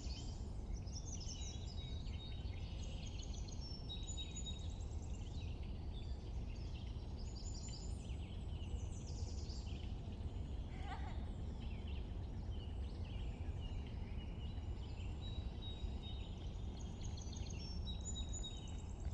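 Several small birds chirping and trilling in spring, many short high calls overlapping without a break, over a steady low background rumble.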